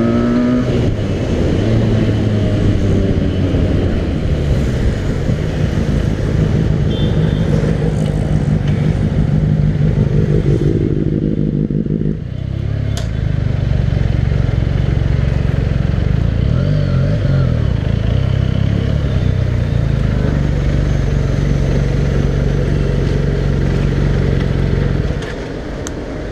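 Benelli motorcycle with a loud aftermarket exhaust, running under way at a steady engine note. The note breaks off briefly about halfway, picks up and holds steady again, then drops away shortly before the end.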